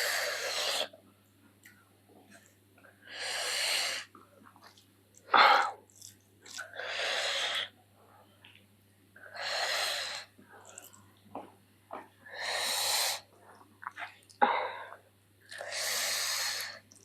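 A person breathing hard through the mouth, a long hissing breath about every three seconds, with two short sharp sniffs between them: panting from the burn of very spicy chilli food.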